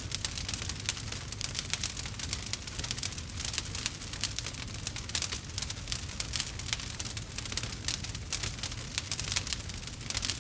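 Campfire burning, the wood crackling in quick, irregular snaps and pops over a steady low rumble.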